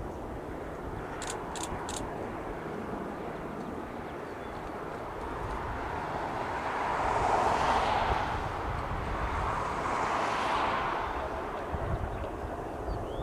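A light aircraft passing overhead: engine and propeller noise swells to its loudest about seven or eight seconds in, holds briefly and fades away. Low wind rumble on the microphone throughout, and a few short high clicks near the start.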